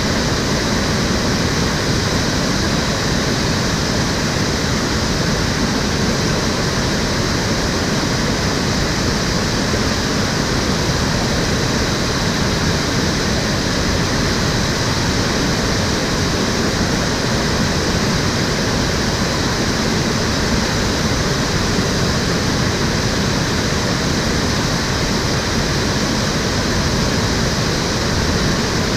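Water of a shallow urban stream flowing in a steady, even rush, with no breaks or separate sounds.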